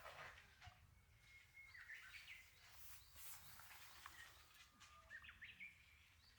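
Faint birds calling: scattered short chirps and a few brief whistled notes that drop in pitch at the end.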